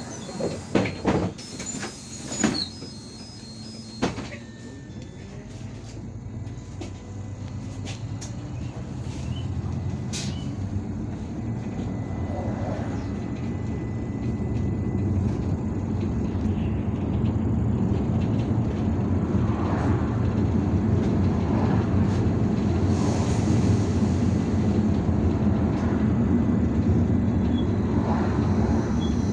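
Inside an IVECO Urbanway 18M articulated city bus: a few sharp clunks and short hisses in the first four seconds, then the engine and drivetrain rumble building for about ten seconds as the bus pulls away and gathers speed, then running steadily.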